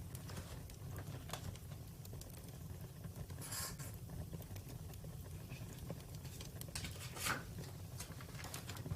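Wood fire crackling, with scattered sharp pops and snaps over a steady low rumble; two louder bursts of crackling come about three and a half and seven seconds in.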